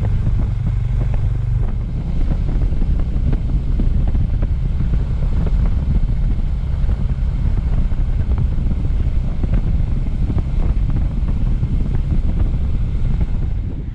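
Suzuki Thunder 250 motorcycle being ridden, its engine running steadily under heavy wind rumble on the microphone, with scattered small clicks and knocks.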